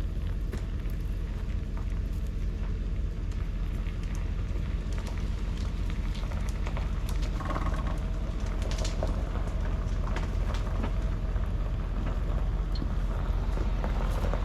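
An engine running steadily at idle, with scattered small clicks and snaps over it.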